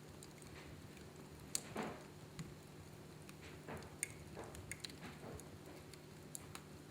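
Wood fire in a fireplace crackling faintly, with scattered sharp pops, the loudest about a second and a half in and again about four seconds in.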